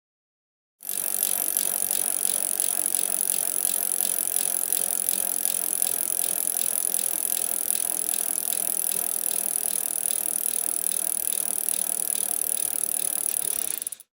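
Bicycle sound effect: a steady hiss with fast, even clicking of a bicycle's moving parts, starting after a moment of silence and cutting off abruptly near the end.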